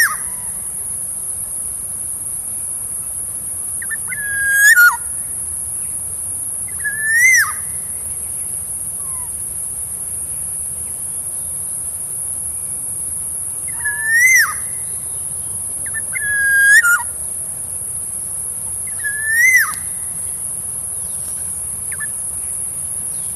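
Black-naped oriole (kepodang) giving its fluty whistled call, a note that rises and then drops sharply, about six times at intervals of a few seconds. A steady high insect drone, like crickets, runs underneath.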